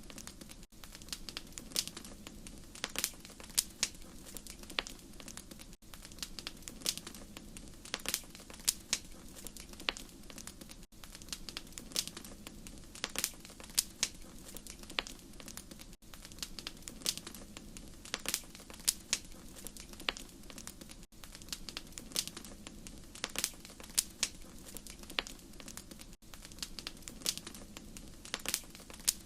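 Wood fire crackling: irregular sharp pops and snaps over a steady low rumble, with a brief dip in level about every five seconds.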